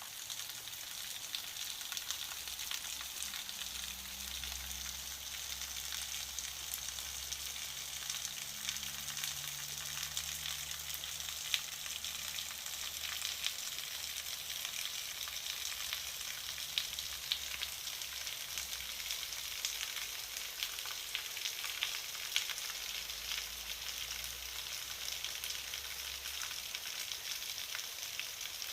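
Steady rain falling: a constant hiss dense with small ticks of drops.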